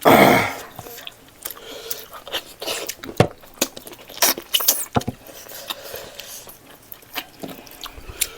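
Close-miked eating: a person chewing a mouthful of pork leg and rice in gravy, with many short wet mouth clicks and smacks. A loud, brief burst of sound comes right at the start.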